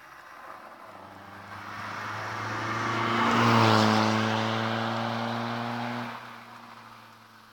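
Peugeot 306 HDi four-cylinder turbodiesel with a straight-through, de-catted exhaust with no back box and an induction kit, driving past under power. The engine note swells to its loudest about three and a half seconds in, holds steady, then drops off sharply around six seconds and fades away.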